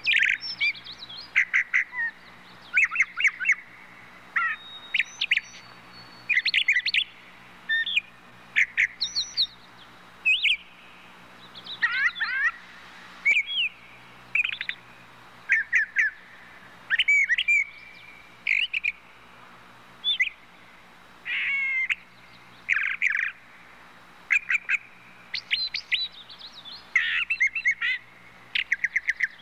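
Birds chirping and calling in short, quick phrases of sharp notes and trills, coming again every second or two, over a faint steady low hum.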